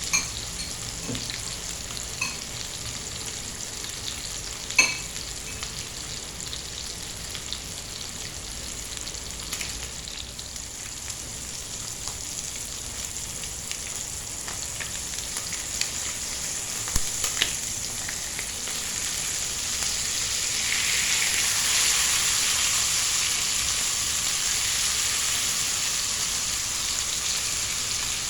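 Chicken fillet frying in a pan, a steady sizzle with a few sharp clicks and knocks. The sizzle swells louder about two-thirds of the way through.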